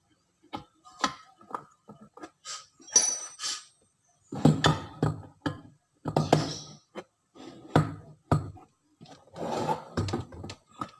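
Irregular clinks, knocks and scrapes of hard objects being handled, with louder bursts of clatter every second or two.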